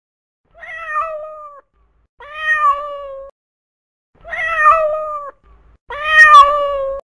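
Domestic cat meowing four times, each meow about a second long with a steady pitch that lifts slightly and falls at the end; the last two are the loudest.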